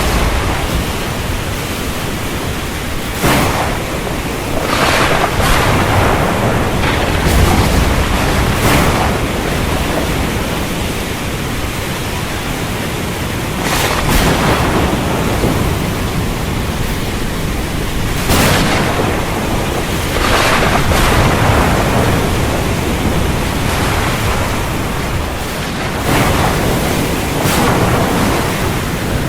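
Storm ambience: steady rushing wind-and-surf noise that swells in surges every few seconds.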